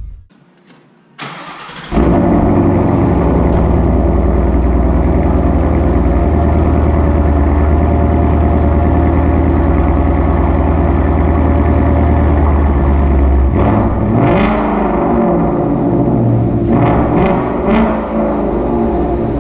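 Ford Mustang GT's 5.0 V8 through a Corsa Extreme cat-back exhaust, catching about two seconds in and then running loud and steady. Its pitch rises and falls around fourteen seconds in, and a few sharp clicks come near the end.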